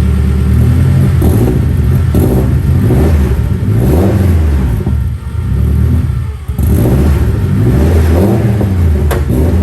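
Honda del Sol's engine running through a newly fabricated full 4-inch exhaust: idling, then revved again and again in blips that rise and fall in pitch.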